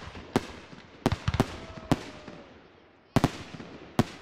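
Aerial fireworks shells bursting: about seven sharp bangs at irregular intervals, some in quick pairs, each trailing a short echo, with a faint whistling tone around two seconds in.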